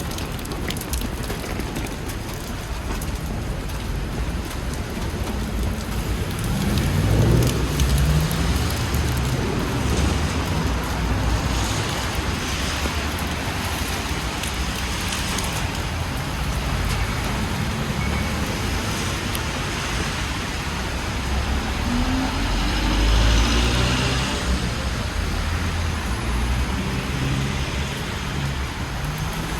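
Steady rain with city street traffic: motor vehicles pass and pull away on a wet road. Two louder vehicles go by about seven and twenty-three seconds in.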